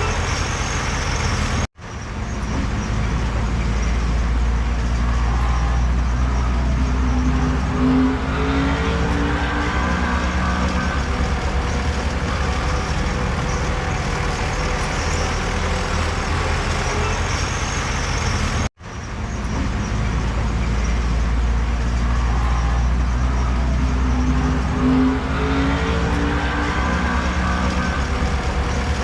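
Heavy diesel earthmoving machinery running steadily with a deep rumble and some shifting engine tones. It cuts out abruptly twice, near the start and about two-thirds of the way through, then comes straight back.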